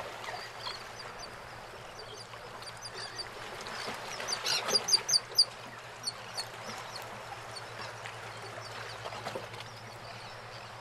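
Birds calling in a run of quick, high chirps about four to five seconds in, with a few more scattered after, over a faint steady low hum.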